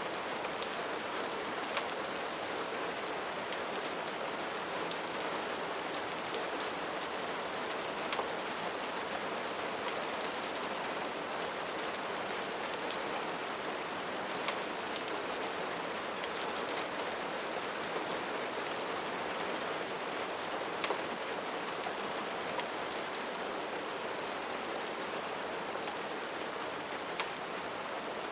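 Steady rain falling, an even hiss with a few faint scattered ticks of drops.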